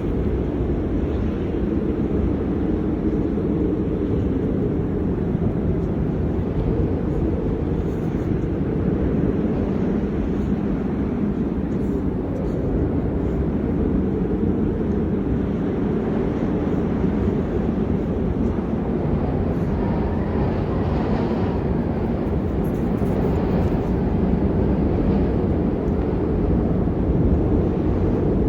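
Steady low rumble of blizzard wind buffeting the microphone, with a faint hiss above it.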